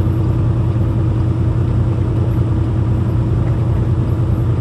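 Peterbilt 579 semi-truck heard from inside the cab while driving slowly, a steady low engine and road drone with a faint constant hum above it.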